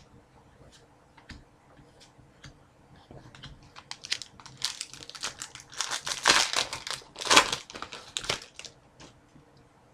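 Wrapper of a pack of hockey trading cards crinkling and crumpling as it is handled and torn, after a few light clicks of cards. The crinkling is loudest in the middle and stops about a second before the end.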